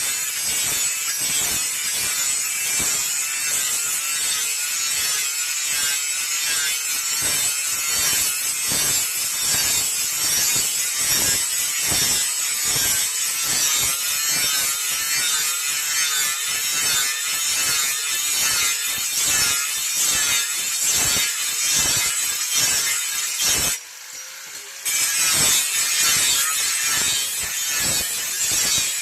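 A hand file scraping a forged steel blade in steady back-and-forth rasping strokes, about two a second, with a short pause near the end.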